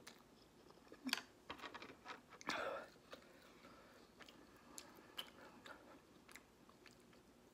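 A person chewing a mouthful of instant noodles: soft, wet mouth smacks and clicks come at irregular intervals, busiest in the first three seconds, with a longer wet smack or slurp about two and a half seconds in.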